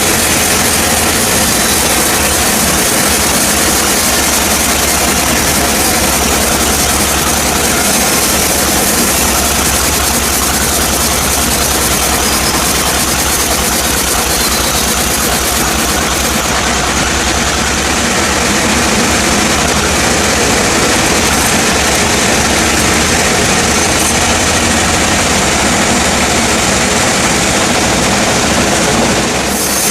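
Sawmill machinery running: a loud, steady engine drone that does not break or change pace.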